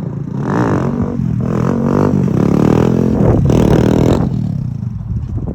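Kawasaki Z125's small single-cylinder engine revving hard as the bike accelerates away, its pitch climbing in several steps as the rider shifts up, then fading after about four seconds.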